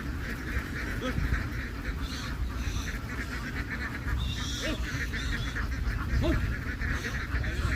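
A large flock of domestic ducks quacking in a dense, continuous chorus, with a few louder single calls standing out, over a steady low rumble.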